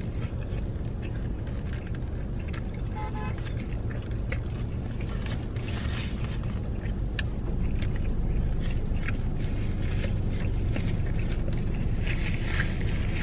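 Close-up chewing of crispy fried chicken, with small wet mouth clicks and crackles, over the steady low hum of the car's running engine. Near the end a paper napkin rustles as it is wiped across the mouth.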